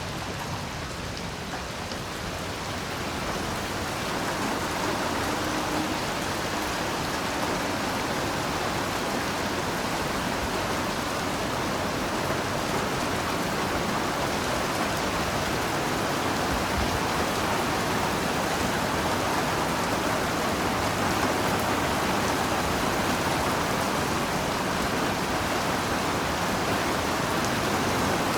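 Heavy rain falling steadily, a dense even hiss of drops. It swells a little over the first few seconds, then holds steady.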